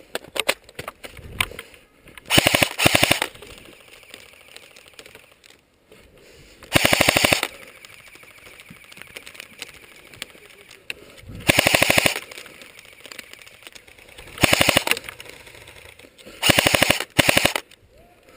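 Airsoft gun fired full-auto in short bursts of rapid, evenly spaced clicks, about six bursts each under a second long. Fainter scattered clicks come between them.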